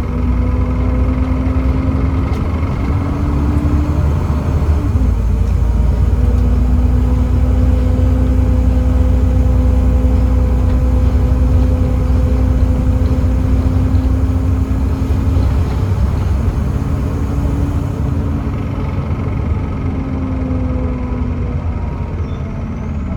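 Volvo B7TL double-decker bus on the move: the Volvo D7C diesel's heavy low rumble with a steady drivetrain whine over it. The whine drops out a few seconds in, comes back about two seconds later, and fades out near the end.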